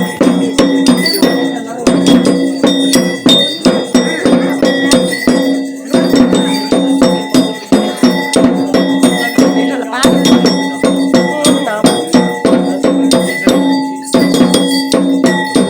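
Ritual bells and percussion played fast and without a break: rapid metallic strikes with ringing bell tones over a steady low drone that drops out briefly every few seconds.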